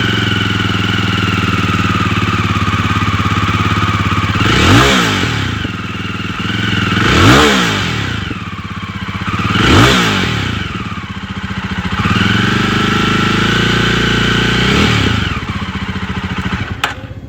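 Jawa 42 Bobber's single-cylinder engine idling, just after being started. It is blipped three times in quick revs about two and a half seconds apart, then held a little above idle for about three seconds before settling back. A sharp click comes near the end.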